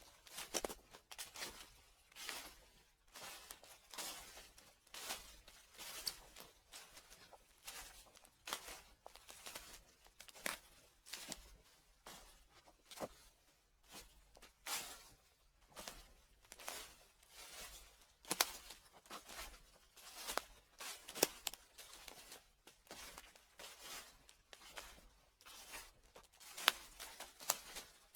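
Footsteps crunching through dry fallen leaves at a slow, steady walking pace, about one crackling step a second.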